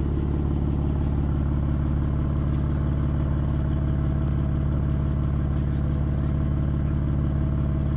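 Car engine idling steadily and loudly, close by, with an even, lumpy pulse.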